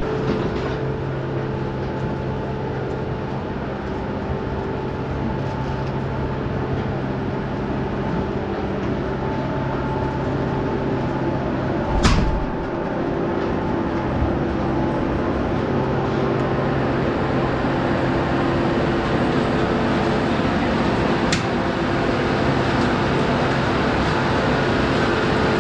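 Farm machine engine running at a steady speed, a constant hum, with a single sharp knock about halfway through and a lighter click later on.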